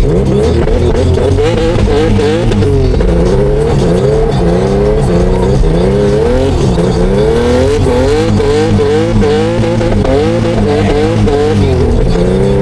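Turbocharged Infiniti G37 drift car's engine revving hard, its pitch rising and falling over and over as the throttle is worked through a drift.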